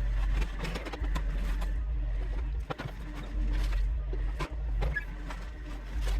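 Excavator engine running steadily with a low rumble, with irregular knocks and scrapes from the machine working.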